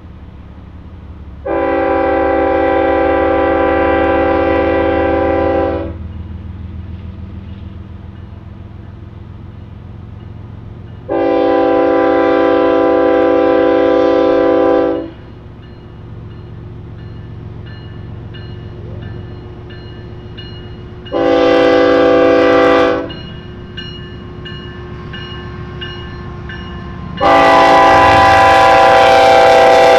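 Diesel freight locomotive's multi-chime air horn sounding the grade-crossing signal: two long blasts, a short one, and a long one starting near the end. A steady low engine rumble runs underneath.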